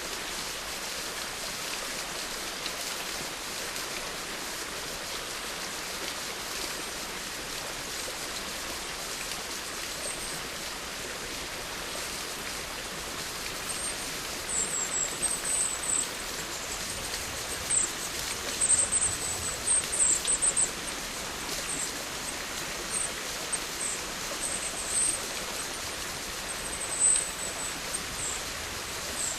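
Steady rain falling, an even hiss. From about halfway through, short high-pitched chirps come in small clusters over it.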